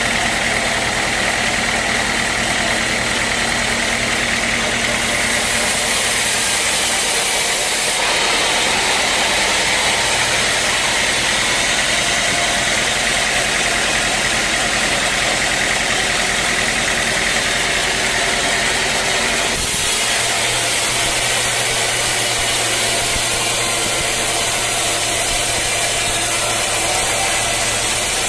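Bandsaw sawmill running steadily at work, engine and blade together making a loud, even noise whose tone shifts about 8 seconds in and again about 20 seconds in.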